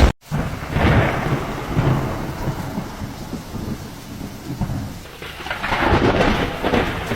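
Heavy rain falling, with a low rumble swelling up about a second in and again near the end.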